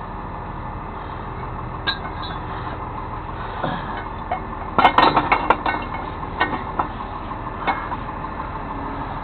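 Metal towing rigging clinking and clanking, with a quick cluster of clinks about five seconds in and single clinks before and after, over a truck engine idling steadily.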